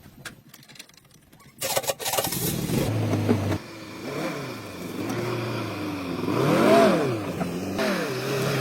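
Car engine catching about a second and a half in, then idling and being revved up and down several times, the highest rev near the end.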